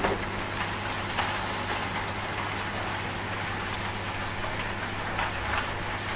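Steady rain with scattered sharper drop ticks, over a low steady hum from a washing machine.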